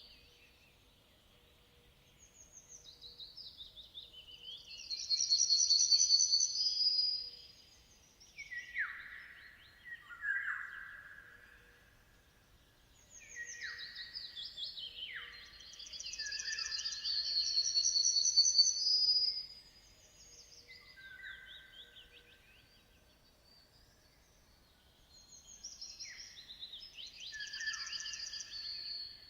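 A songbird singing long phrases of high, buzzy trills and downward-sweeping notes, repeated about three times with short pauses between them.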